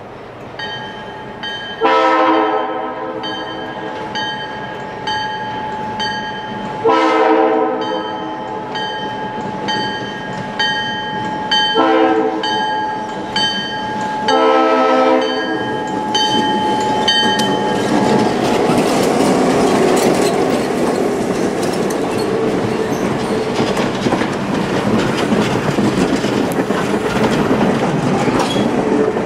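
Diesel locomotive horn sounding the grade-crossing signal, long, long, short, long, over the steady strokes of a railroad crossing bell. Then the train's passenger coaches roll over the crossing, wheels clattering on the rails.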